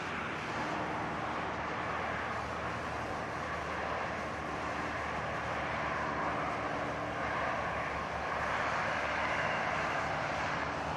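Diesel freight train running by: a steady engine rumble under a rushing noise that grows slightly louder over the seconds.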